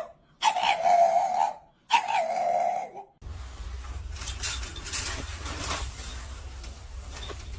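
A dog making long, drawn-out pitched calls, three in a row of about a second each, then a sudden change about three seconds in to a steady low hum with faint rustling.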